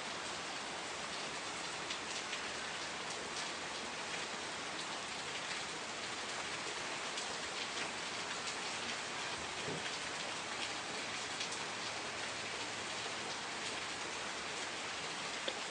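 Steady rain falling, an even hiss with many fine drop ticks on a surface, and one slightly sharper drop near the end.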